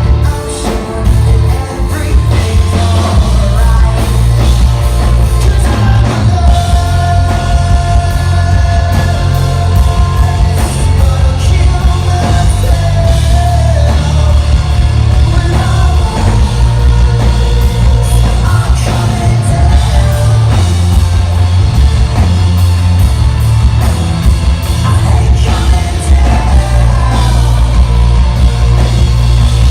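Rock band playing loud and live, with heavy bass and drum kit under a singer's voice that holds long notes for several seconds about a third of the way in.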